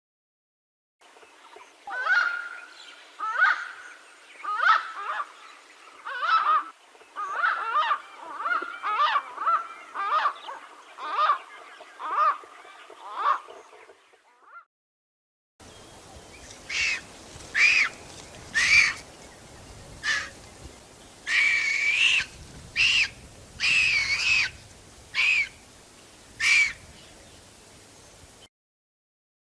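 Repeated calls of birds of prey, in two separate recordings: first a series of about a dozen calls, roughly one a second, then after a short break about ten higher-pitched calls at an uneven pace.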